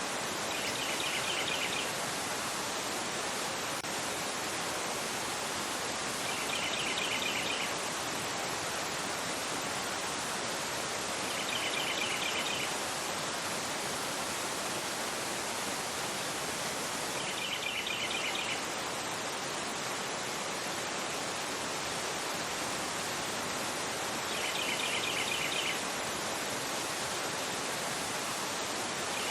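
Fast river rushing over a rocky bed, a steady, full rush of water. Over it, a bird gives a short trill of rapid chirps about every five to six seconds.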